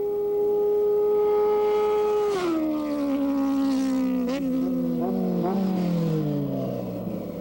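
Drag-racing motorcycles running at full throttle: a steady high engine pitch that drops about two seconds in and keeps falling, with a few short blips, as they pass and pull away.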